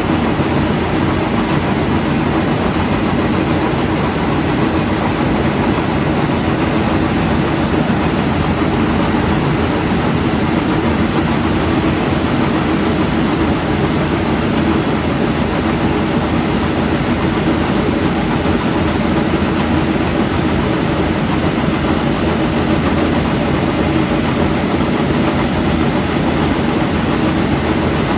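Rice threshing machine running steadily at close range: a dense, constant mechanical noise with a steady low hum underneath.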